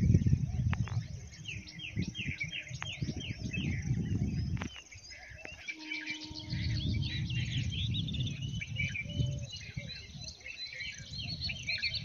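Several birds chirping and calling together in quick, repeated notes, thicker in the second half. A low rumble comes and goes underneath, loudest at the start, with a brief steady hum about halfway through.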